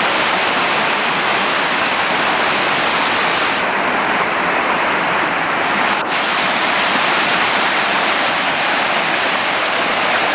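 Steady, loud rush of water from a waterfall, with a small click about six seconds in.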